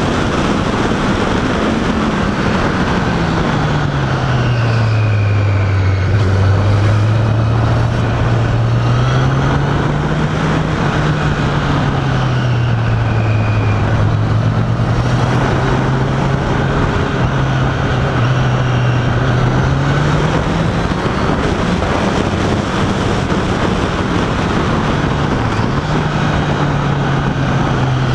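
Honda CBR1000RR Fireblade's inline-four engine running under way, its pitch falling, rising and dipping several times with the throttle, over a steady rush of wind and road noise.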